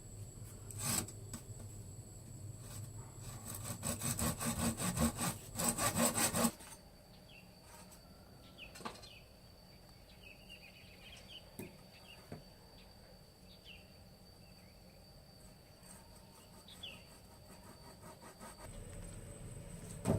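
Saw cutting through wood in quick strokes, about four a second, that stop abruptly about six and a half seconds in. Afterwards, faint bird chirps and a steady high insect drone.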